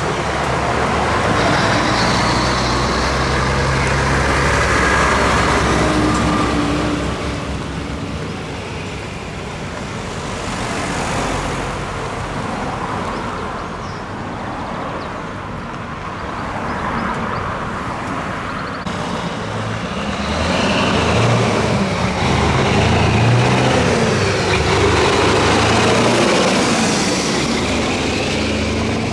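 Heavy trucks driving past in a convoy, diesel engines running over tyre and road noise. One truck is loudest at the start, and another passes louder from about twenty seconds in, its engine pitch shifting as it goes by.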